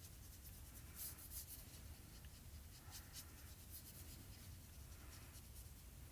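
Faint, intermittent scratching of a marker tip stroked across cardstock while coloring, over a low steady hum.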